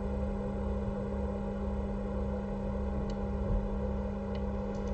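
Steady electrical hum with a few faint ticks.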